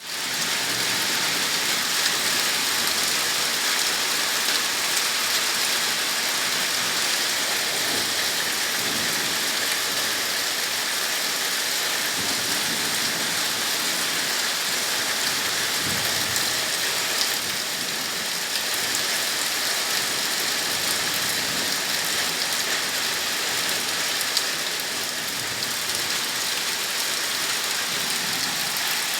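Heavy rain pouring steadily onto surfaces, a dense even hiss with occasional louder drop ticks.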